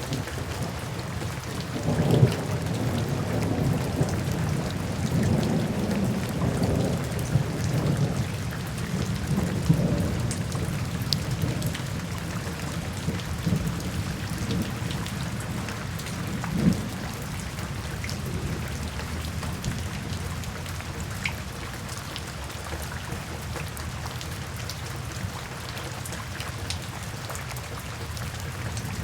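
Steady rainfall with individual drops ticking, under light rumbles of thunder that roll on and off through the first ten seconds. There is one short, sharper thunder peak just past the halfway point, and after it the rain carries on more evenly.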